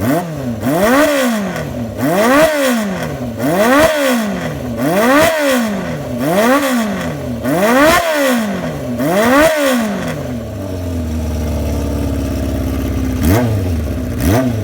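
Honda CB350 Four's inline-four engine through a 4-into-1 exhaust, revved in seven quick blips about a second and a half apart, then settling to a steady idle with two more short blips near the end. The engine is on its first start of the day and still cold.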